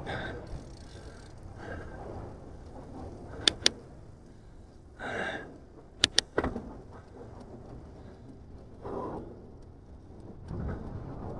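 Wind and rolling noise during a bicycle ride, with two quick pairs of sharp clicks, about three and a half and six seconds in.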